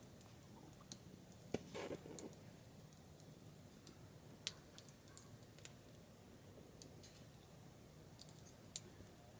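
Wood fire crackling in a small camping wood stove: scattered sharp pops and ticks, a few louder than the rest, over a faint background.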